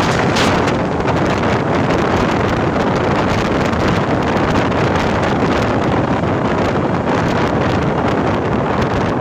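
Express train running at speed: a loud, steady rush of wind and rolling noise, with wind buffeting the microphone.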